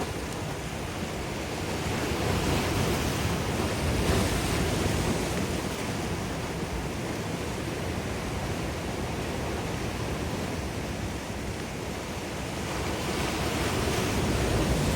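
Ocean surf: a continuous rush of breaking and washing waves that swells about two seconds in and builds again near the end.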